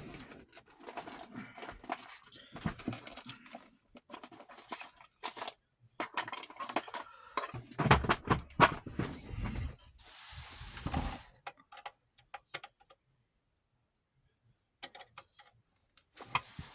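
Clicks, taps and rattles of small hard plastic and metal parts being handled as an old 8mm film viewer is pulled apart by hand, with louder bursts of clatter about eight and ten seconds in.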